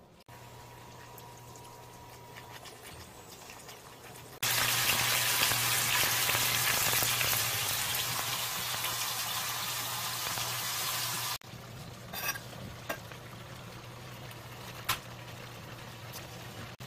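Webfoot octopus in spicy sauce and pork belly sizzling in hot frying pans. The sizzle turns much louder for about seven seconds, starting and stopping abruptly. In the quieter frying afterwards, tongs click against the pan a few times.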